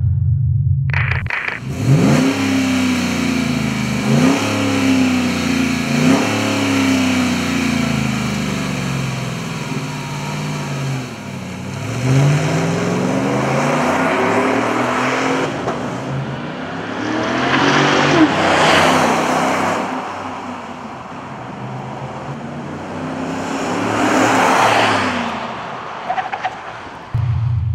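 V8 truck engine breathing through a Magnaflow stainless-steel cat-back exhaust, revved in three quick blips about two seconds apart, then run up and down through longer swells in pitch.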